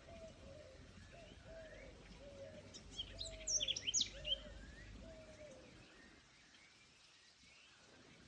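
Forest birds calling: a repeated low call of short, falling notes, and a brief burst of high, sharp chirps about three seconds in, which is the loudest part.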